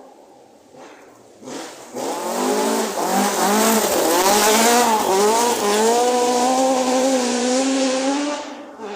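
Rally car engine at full throttle, coming up loud and passing, with the revs rising and falling repeatedly through gear changes and lifts. The sound drops away sharply near the end.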